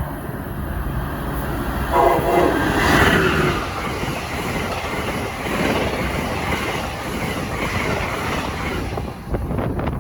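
Passenger train sounding its horn once, for about a second and a half, about two seconds in, while it runs past with loud, steady wheel and rail noise that eases near the end.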